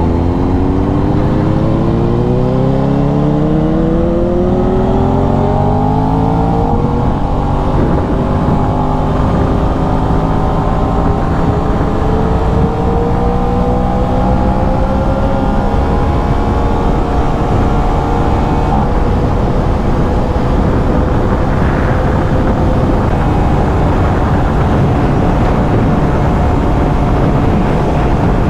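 Aprilia RS 660's parallel-twin engine through its stock exhaust, heard from the rider's position: revs climb for about seven seconds with an upshift, rise more gently, then settle into a steady cruise, over a constant rush of wind and road noise.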